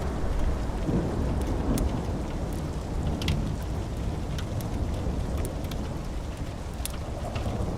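Steady rain with a low rumble of thunder dying away over the first few seconds. Scattered sharp crackles of a wood fire sound through it.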